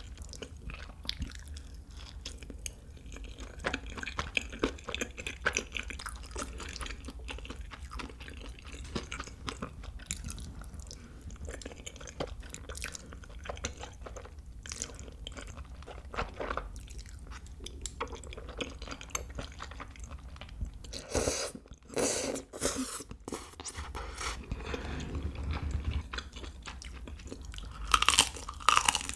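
Close-miked mukbang eating: steady wet chewing of tteokbokki and noodles, with a few louder bursts about two-thirds through. Near the end comes a loud crunchy bite into fried chicken coated in nacho-chip crumbs.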